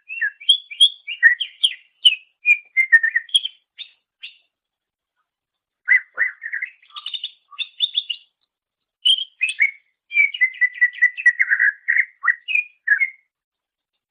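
Greater green leafbird (cucak ijo) singing: three bursts of fast, varied chirps and whistled notes, with short pauses after about four seconds and again near eight seconds.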